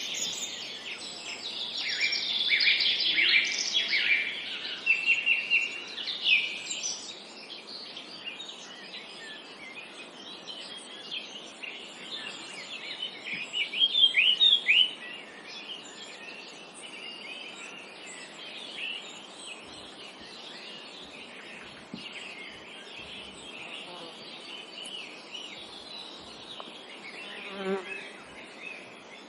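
Several songbirds chirping and trilling in a forest chorus of quick, high chirps, busiest in the first few seconds, with a loud run of chirps about halfway through. A brief low buzz comes near the end, over a steady faint hiss.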